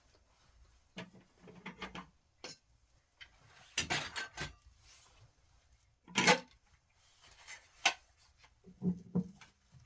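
Kitchen clatter of dishes and utensils: intermittent knocks, clinks and scrapes in small clusters, the sharpest knock about six seconds in.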